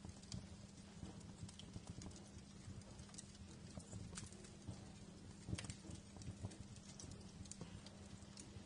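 Fireplace wood fire crackling: irregular pops and snaps, a few louder ones, over a low rumble and a faint steady hum.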